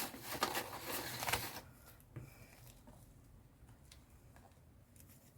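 Rustling and handling of paper and craft items on a desk for about a second and a half, with a few light ticks, then near quiet with only a few faint clicks.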